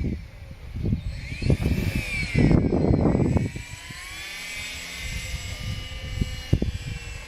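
Radio-controlled model Glasair Sportsman flying by, its motor and propeller whining high and shifting up and down in pitch as it passes, with gusts of wind buffeting the microphone.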